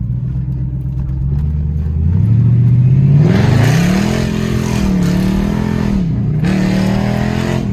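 Mercedes-Benz CLS V8 with its mufflers cut off, running with a loud open exhaust, heard from inside the car with the windows cracked. It runs low for about two seconds, then accelerates hard, its pitch climbing and held high with a couple of brief dips.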